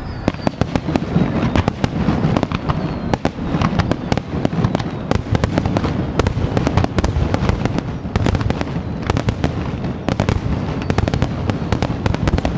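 Aerial fireworks in a rapid barrage: many overlapping bangs and crackles, several a second, over a continuous low rumble.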